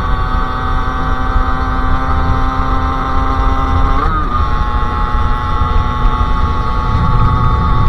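Sherco SM-R 50's 50cc two-stroke engine with a KRM aftermarket exhaust, running at steady revs while riding over a heavy low rumble. About four seconds in, its pitch briefly dips and recovers.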